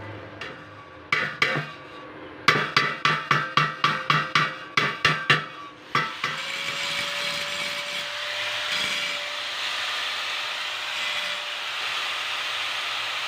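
Hammer blows during a motorcycle rim repair: two strikes, then about a dozen in quick succession at roughly four a second. About six seconds in, a power tool starts and runs steadily with a hissing, grinding sound and a steady hum.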